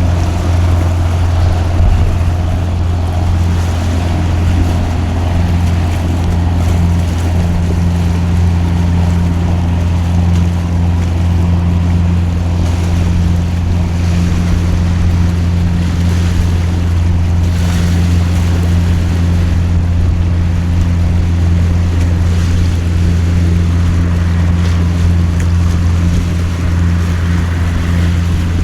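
A fishing boat's engine running at a steady low drone, with the even hiss of heavy rain over it.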